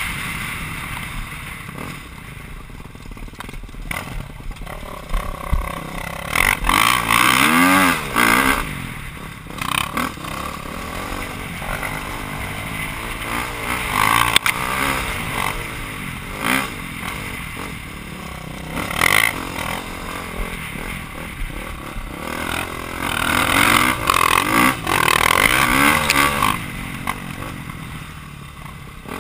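Motocross bike engine revving up and falling back in repeated surges of throttle, heard from an onboard camera with wind buffeting and rattling.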